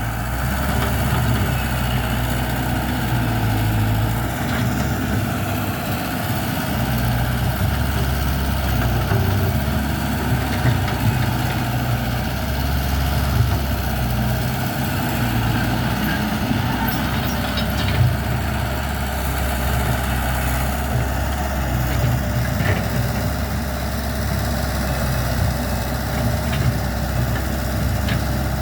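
Caterpillar 312D hydraulic excavator's diesel engine running, its low note shifting every few seconds.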